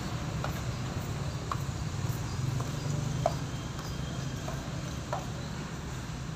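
Cat crunching dry kibble: short sharp crunches every second or so, over a steady low hum.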